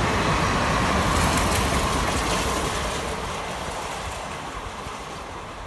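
Indian Railways passenger express train running past, its coach wheels rumbling on the rails. The sound fades steadily from about two seconds in as the train draws away.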